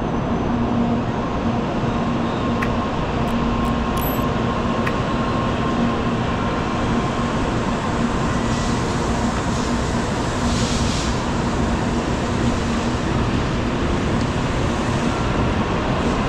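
Steady hum and rumble of a Shinkansen bullet train standing at a station platform, with a low steady tone running through it. A few faint clicks come about three to five seconds in.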